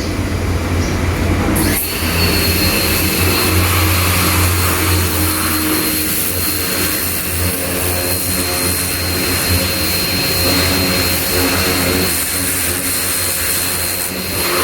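Ava P25 high-pressure washer running: its motor hums steadily, and about two seconds in the water jet opens with a loud, steady spraying hiss.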